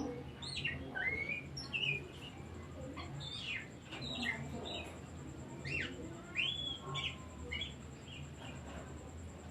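Oriental magpie-robin (kacer) singing: a varied, quick run of short whistled notes, many sweeping up or down in pitch.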